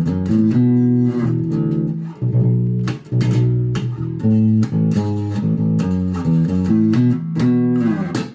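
Epiphone Grabber electric bass playing a run of short plucked notes, with the tone control partly rolled off for a warmer, vintage sound.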